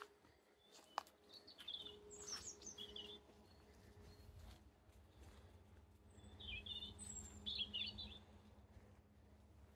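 Faint woodland birdsong: two bouts of quick, high chirping phrases, one about a second and a half in and another around six and a half seconds in. A single sharp click comes about a second in, over a steady low background rumble.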